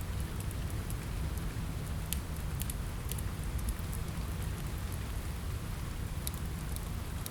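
Steady rain with a low rumble, mixed with the scattered sharp pops of a crackling wood fire.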